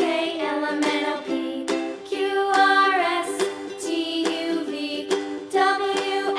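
Cheerful background music led by a plucked, ukulele-like instrument, with a bright melody over steady repeated notes.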